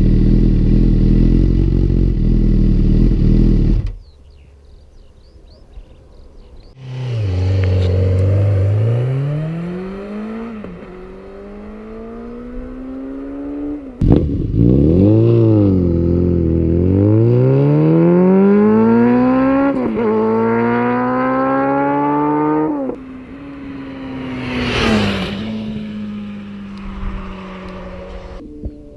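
Honda CB1000R's inline-four engine through a Yoshimura R-77 exhaust. It runs loud and steady, then drops away sharply about four seconds in. From about seven seconds in it revs up again and again, the pitch climbing and then falling back each time, as in accelerating through the gears.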